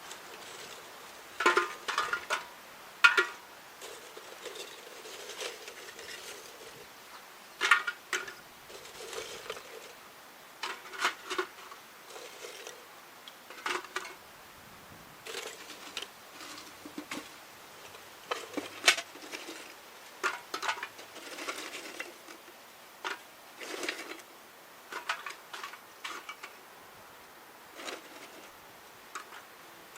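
Irregular light clinks and taps of hard objects being handled and set down, single or in quick clusters, with soft rustling between.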